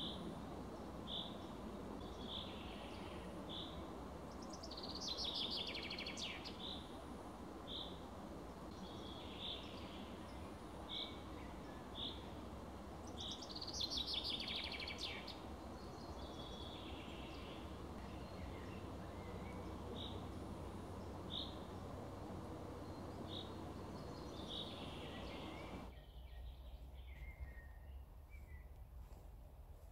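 Songbirds in a conifer forest: one bird repeats a short, high note about once a second, while another sings a louder, downward-sliding trill twice, around five and fourteen seconds in. A steady low background hiss runs under them and drops away sharply near the end.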